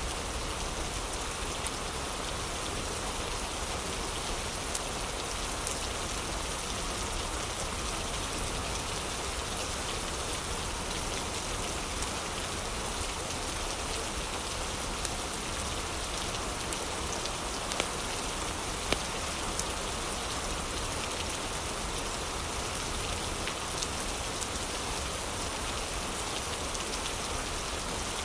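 Heavy rain falling steadily, with a low rumble underneath and scattered sharp crackles from a fireplace; a few crackles stand out louder, twice close together past the middle.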